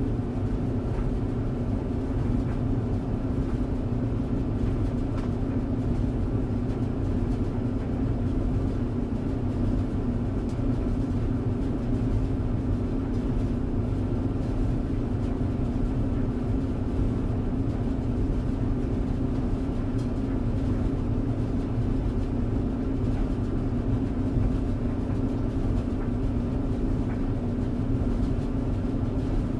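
Tumble dryer running: a steady low rumble with an even hum, unchanging throughout.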